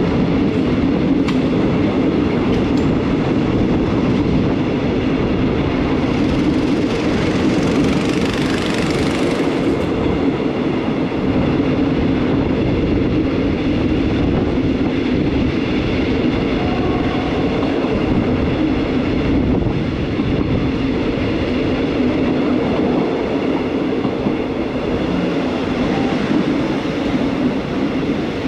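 Passenger train coach running along the track, heard through an open window: a steady rumble of wheels on rail, with a hiss rising and cutting off about six to ten seconds in.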